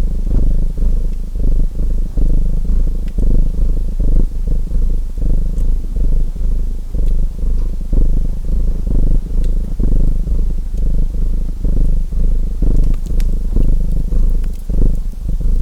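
Domestic cat purring close up: a low, steady rumble that swells and fades about once a second. A few faint crackles of a wood fire sound over it.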